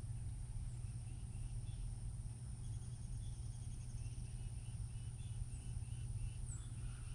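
Faint outdoor ambience: short small-bird chirps repeat about twice a second from a few seconds in, over a steady low hum and a thin high insect drone.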